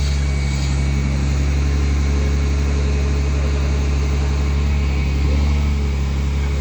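An engine running steadily at a constant low hum, with no change in speed.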